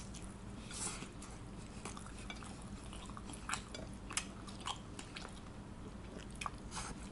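A person chewing a mouthful of pizza, with scattered small clicks and smacks of the mouth.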